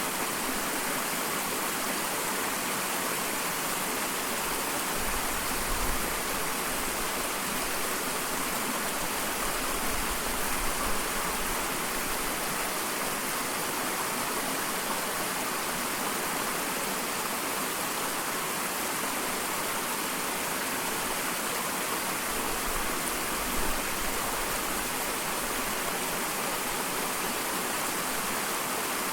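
Small waterfall: water pouring and splashing in a steady, even rush, with a few brief low rumbles.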